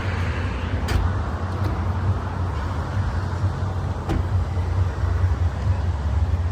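A car engine running steadily with a deep, low rumble, with a couple of faint clicks over it.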